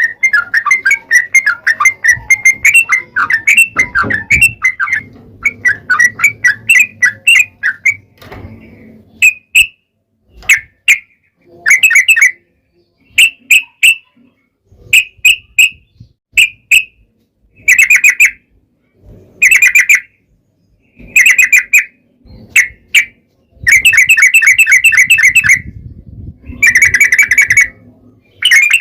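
Yellow-vented bulbul (trucukan) song: loud, rapid chattering phrases. A dense run of notes goes on for about eight seconds, then the song breaks into short bursts with pauses between them, and the last few bursts are longer.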